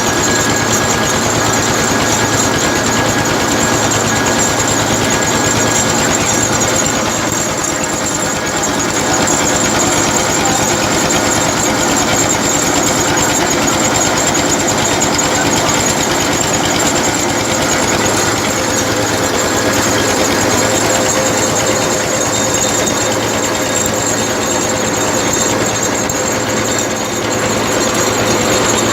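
Tractor-driven atta chakki (flour mill) running steadily, a loud, even mechanical clatter of the engine and mill with a fast, unbroken pulsing beat.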